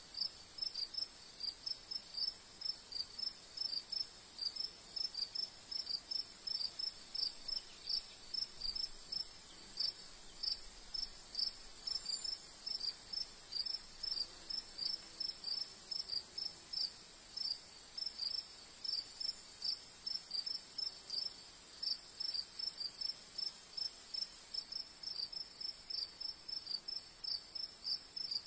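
Insects, crickets, chirping: a steady high-pitched trill with a string of shorter chirps over it, about two or three a second.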